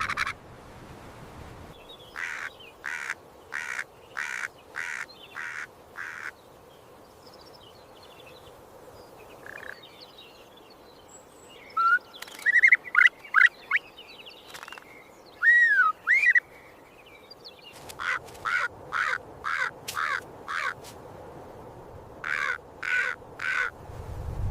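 Birds calling: three bouts of short, harsh caw-like calls at about two a second, with a few quick chirps and rising-and-falling whistled notes in between, over a faint steady hiss.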